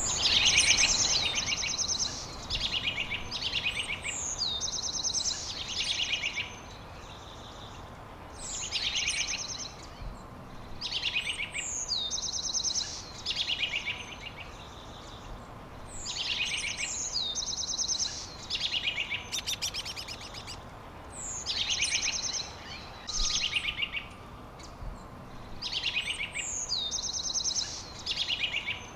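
A songbird singing the same phrase over and over, about every two to three seconds. Each phrase is a falling whistle followed by fast buzzy trills, heard over a steady background hiss.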